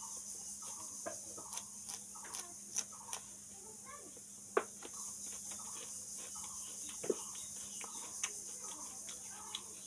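Raw green chillies being bitten and chewed, with sharp crunches, two of them louder about four and a half and seven seconds in. A hen clucks over and over in the background.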